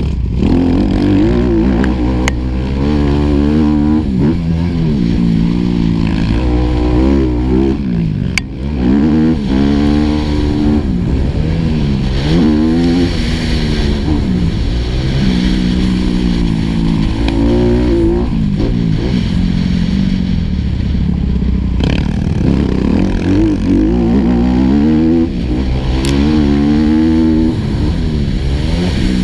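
Four-stroke motocross bike engine ridden hard, its pitch climbing and falling again and again as the rider opens the throttle, shifts and backs off. A few sharp clicks are scattered through it.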